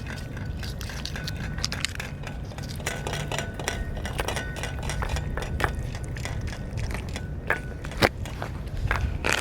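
Stray cats eating dry cat food: irregular crunching and clicking of kibble, with occasional clinks against the dish, over a steady low rumble.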